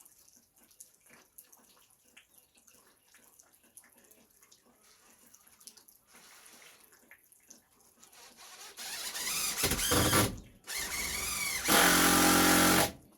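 Light clicks and knocks, then about nine seconds in an electric power tool's motor starts up and runs loud in bursts: a short stop, then it runs again at a steady pitch and cuts off suddenly near the end.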